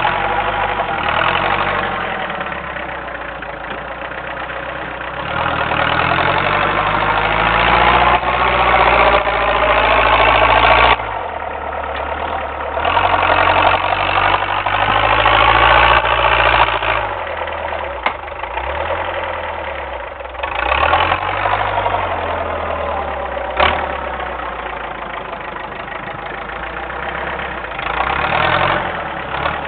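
Homemade doodlebug tractor's diesel engine working under load while plowing heavy wet snow, its pitch repeatedly rising as it is throttled up and falling as it eases off, with a sudden drop in revs about eleven seconds in. A single sharp knock is heard about two-thirds of the way through.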